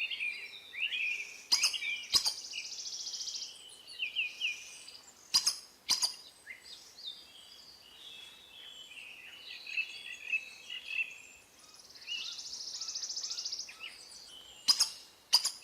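Several birds chirping and calling in quick, overlapping notes, with a buzzy trill twice and a few sharp clicks scattered among them.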